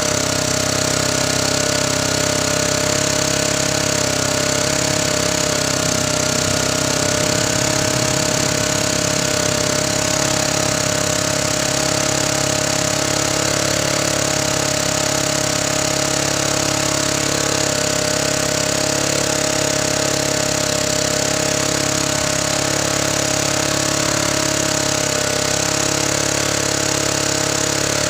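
Honda portable generator's small engine running steadily at an even speed.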